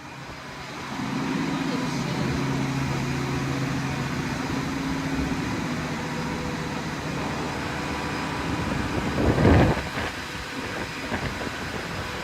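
Hurricane wind and rain blowing as a steady loud roar, with a low steady hum under it for the first few seconds and a sharper, louder rush about nine and a half seconds in.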